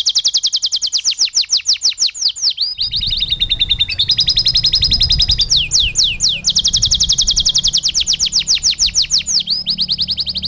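Domestic canary singing a continuous song of rapid trills, about ten quick down-slurred notes a second, switching between tours of differently pitched repeated notes every second or two. A low rumble runs underneath from about a quarter of the way in.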